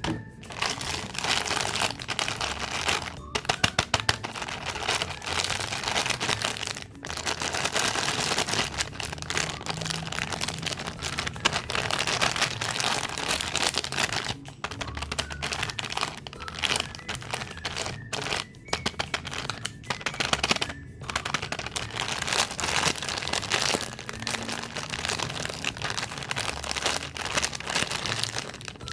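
Plastic snack wrappers crinkling loudly as packaged cakes and cookies are unwrapped by hand, nearly continuous with a few short breaks.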